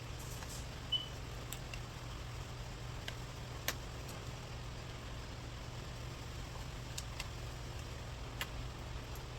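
Steady low hum with a few faint, sharp clicks and taps scattered through it, and a short high chirp about a second in.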